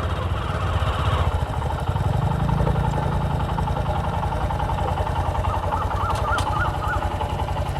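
Honda Livo BS6's single-cylinder 110 cc engine running steadily as the motorcycle is ridden, its exhaust pulsing evenly.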